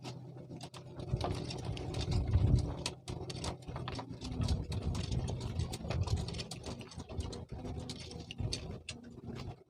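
An engine running steadily, with many sharp clicks and knocks over it.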